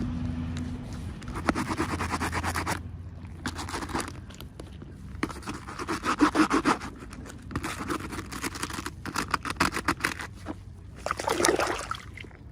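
Toy packaging being opened by hand: about half a dozen bursts of scraping and crinkling, each a second or so long.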